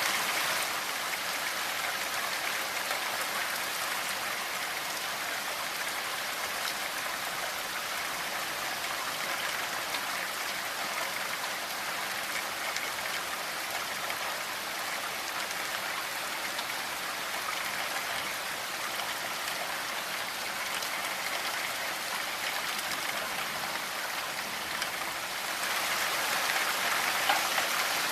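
Steady rainfall: an even hiss of falling rain, growing a little louder near the end.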